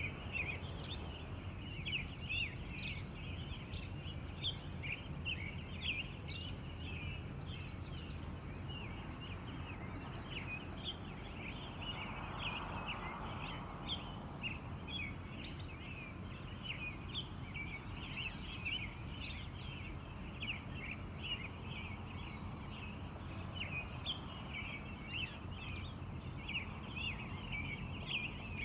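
Early-morning outdoor chorus: many wild birds chirping in quick, overlapping short notes, over a steady high insect hum and a low background rumble. A brief higher trill comes twice, about a quarter and again about three fifths of the way through.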